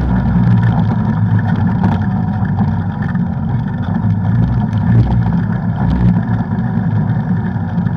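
Off-road vehicle engine running steadily while riding, with a few brief knocks and rattles over the trail.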